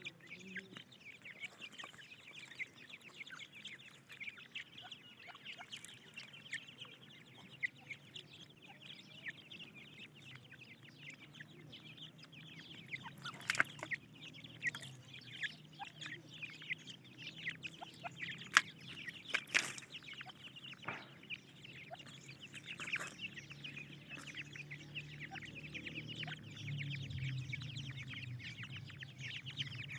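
A brood of francolin chicks peeping constantly in rapid, high cheeps, with a few sharp clicks around the middle and a low hum building near the end.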